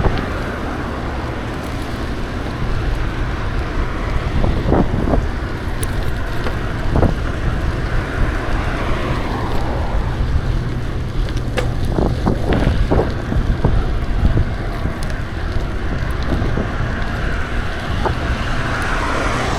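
Wind rushing over the microphone of a moving bicycle, a steady low rumble, with a few short knocks or rattles scattered through it.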